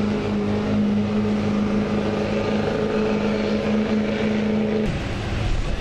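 Pulling truck's engine running hard at a steady pitch, then changing abruptly near the end.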